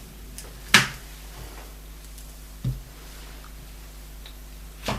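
Kitchen things being handled while a cup of butter is set out: a sharp click about a second in, a dull knock in the middle and another click near the end, over a faint steady hum.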